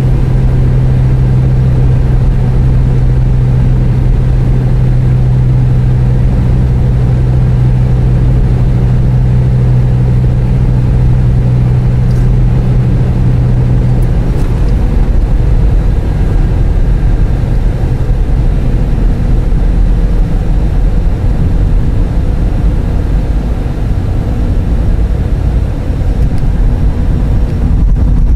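Car engine idling, heard from inside the cabin as a steady low rumble. A steady low hum sits over it and drops out about halfway through.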